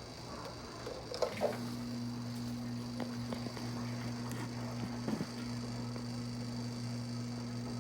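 Electric motor of a household laundry machine switching on after a click about a second in, then humming steadily with a low, even drone.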